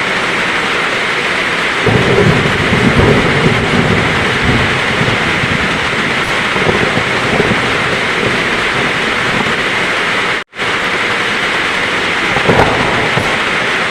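Heavy rain falling steadily, with a low rumble of thunder that swells about two seconds in and fades over the next few seconds. The sound cuts out for an instant about ten seconds in.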